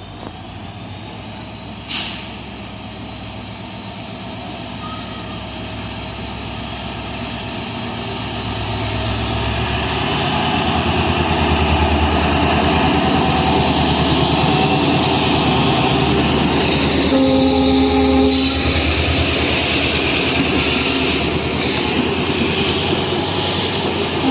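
Express train running through a station at high speed without stopping. The noise grows steadily as it approaches, then holds as a loud steady rush as the train passes. A short horn blast sounds about two-thirds of the way through.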